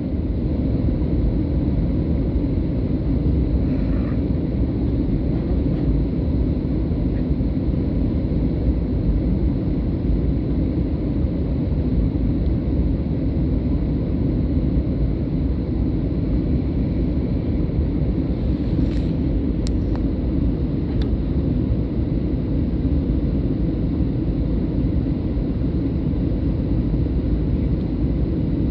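Steady cabin noise inside a Boeing 737-800 in flight: an even low rumble of its CFM56 engines and airflow. A couple of faint clicks come about two-thirds of the way through.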